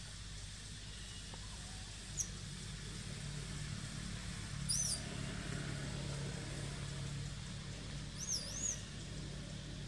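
Outdoor forest ambience: a few brief high-pitched bird calls, one about two seconds in, a warbling one about five seconds in and two wavering whistled notes near the end, over a steady low hum.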